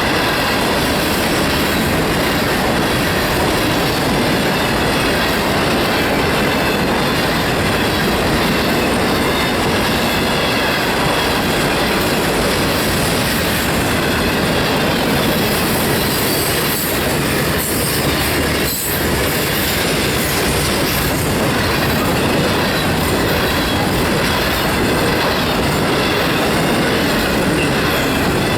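Train running on the rails: steady, continuous wheel-and-rail noise.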